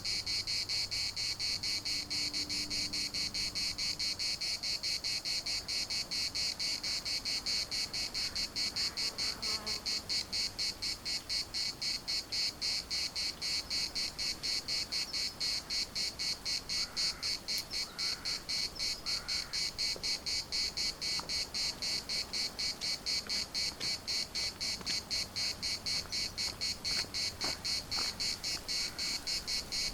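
Chorus of cicadas buzzing loudly and continuously in a steady pulsing rhythm, several pulses a second.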